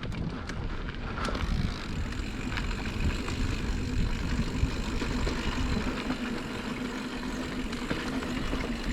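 Mountain bike rolling down a dirt trail: a steady rumble of tyres and rattling bike parts with wind on the helmet camera, and a faint steady hum that comes in about a second and a half in.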